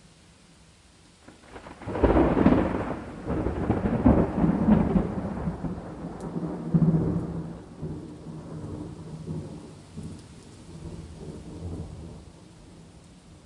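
A thunderclap about two seconds in, followed by a long rolling rumble that swells again twice and slowly fades, over the steady hiss of rain.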